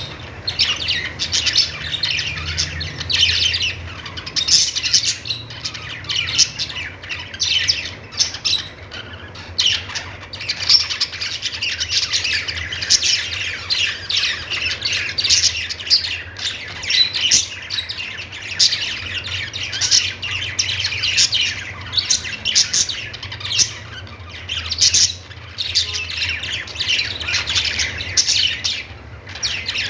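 Several budgerigars chattering, with rapid overlapping chirps, warbles and squawks that run on without a break, over a faint steady low hum.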